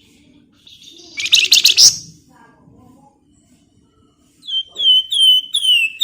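Flamboyan songbird singing: a loud, rapid, buzzy trill lasting under a second about a second in, then near the end a run of five short, clear whistles, each sliding down in pitch.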